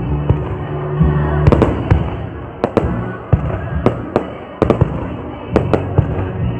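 Fireworks bursting: a string of sharp bangs at irregular intervals, about two a second, over a low rumble.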